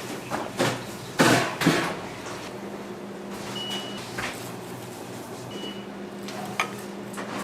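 Restaurant kitchen sounds: a few sharp clatters of utensils or dishes in the first two seconds over a steady machine hum, then two short high electronic beeps a couple of seconds apart and a single click.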